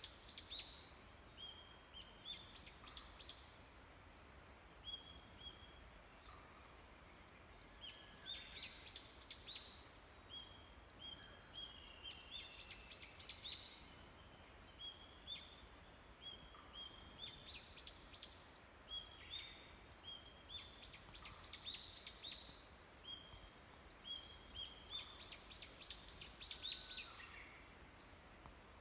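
Small songbirds singing in an early-morning dawn chorus. One bird repeats a rapid high run of notes lasting two to three seconds about every four to five seconds, while shorter whistled notes come in between.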